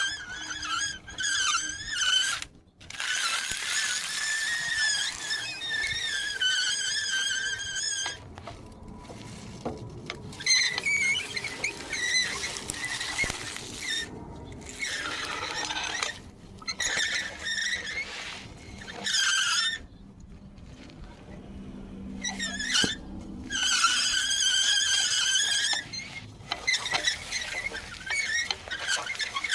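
Repeated high-pitched squealing: long, wavering squeals, some lasting several seconds, with short gaps between.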